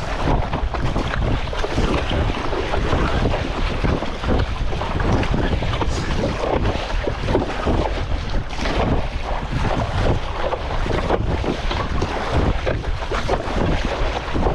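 Strong wind buffeting the microphone over a choppy sea surface, with water splashing and sloshing throughout.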